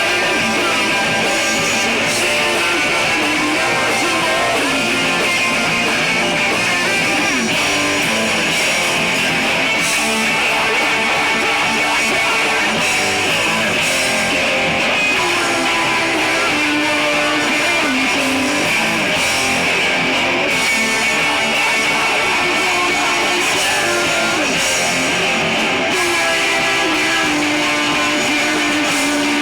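Live rock band playing, with loud distorted electric guitars strumming over bass and drums.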